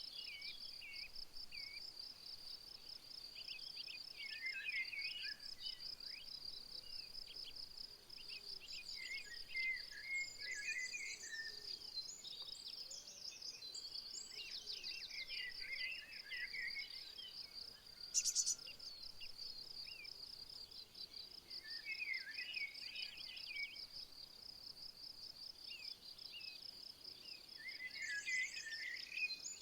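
A steady, high, finely pulsing insect chirring, like a cricket or bush-cricket, runs throughout. Birds sing short phrases every few seconds below it. There is a brief, louder buzzy burst about eighteen seconds in.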